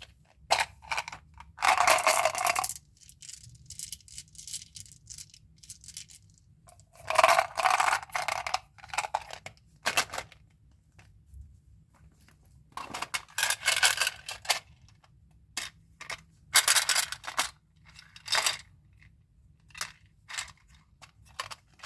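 Gum and candy packaging being handled and opened: wrappers crinkling and tearing in several bursts of a second or two, with small clicks and taps in between.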